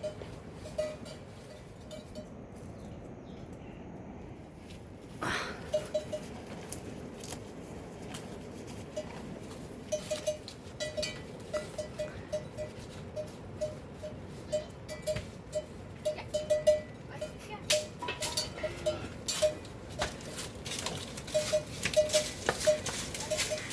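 A bell on a farm animal's neck clanking irregularly as the animal moves, with short ringing strikes at one pitch that come more often in the second half. Scattered sharp ticks sound alongside it.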